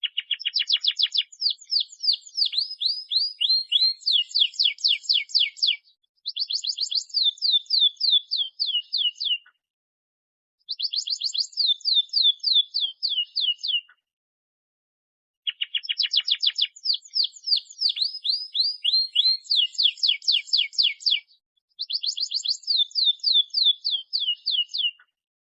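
Domestic canary singing a fast, continuous song: long trills of rapidly repeated high syllables, in phrases of a few seconds each broken by short pauses.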